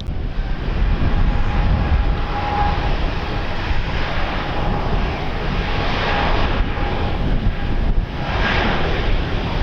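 Aircraft engine with a steady whine, heard through heavy low rumble from wind on the microphone.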